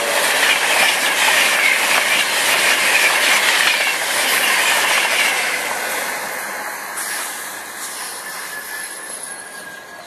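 A passenger train passing close by at speed: the rush of wheels on rail with a high squealing hiss, loud for the first few seconds, then fading gradually as it draws away.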